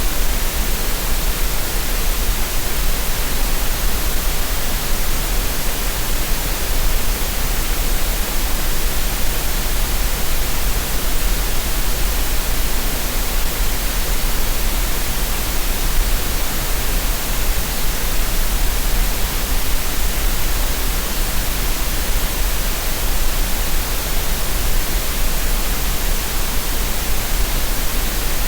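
Green noise: a steady, unchanging synthetic hiss spread evenly across the range, with a strong deep rumble underneath. It is played continuously as a relaxation and tinnitus-masking sound.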